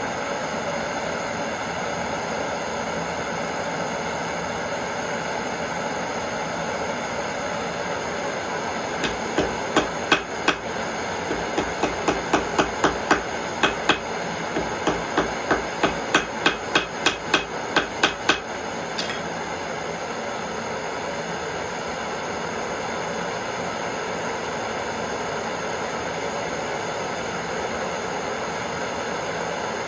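Gas torch hissing steadily, with a run of hammer blows on a steel anvil in the middle, about two a second for nine or ten seconds, as a heated nail is hammered flat.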